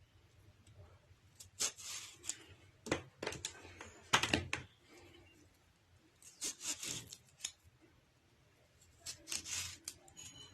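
Hands working cut lemons for preserving, in four or five short bursts of rubbing and scraping a few seconds apart, with quiet between them.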